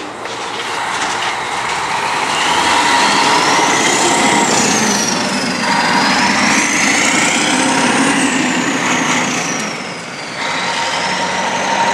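A heavy machine or vehicle running steadily, with a high whine that rises and falls several times and a brief dip in level about ten seconds in.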